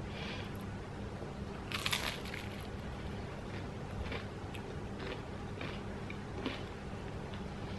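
Biting into and chewing a slice of crusty toast topped with a vegan fried egg, with one louder crunch about two seconds in and small crunches of chewing after it.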